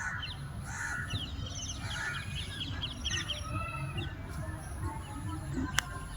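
Birds calling outdoors: a harsh, repeated caw-like call about once a second over the first couple of seconds, over many quick small-bird chirps. A steady high whine runs underneath, and a single sharp click comes near the end.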